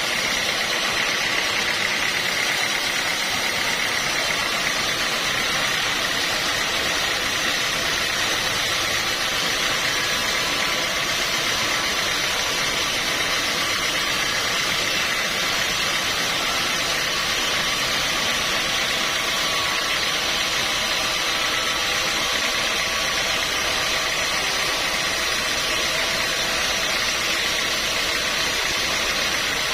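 Sawmill machinery running steadily: a constant mechanical noise with a faint steady whine, unchanged throughout.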